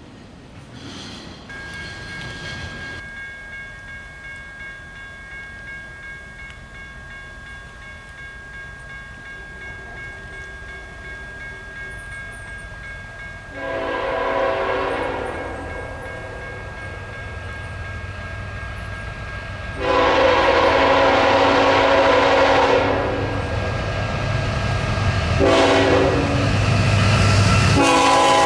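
Diesel freight locomotive's air horn sounding the long, long, short, long grade-crossing signal as the train approaches. The low rumble of the train grows louder under the last blasts.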